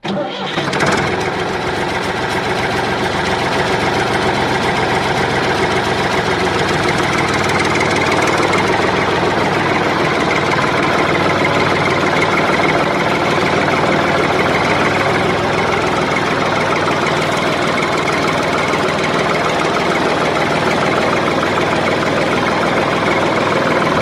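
Motor of a homemade mini tractor running steadily with a continuous rattle.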